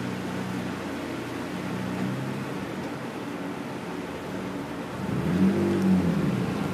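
Car cabin at about 70 mph on the highway: steady exhaust drone, a low hum over tyre and road noise, from a custom exhaust. About five seconds in, a louder tone swells and then fades.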